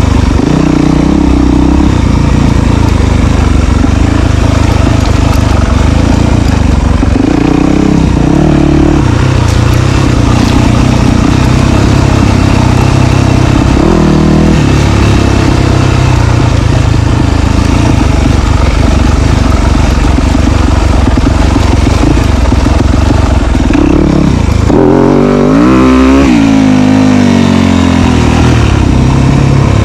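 Dirt bike engine running loud, its pitch rising and falling with the throttle, with a quick series of revs up and down about 25 seconds in.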